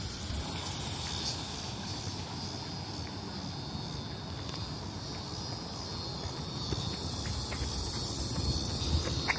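Steady, high-pitched insect drone from a chorus of insects, over a low rumble.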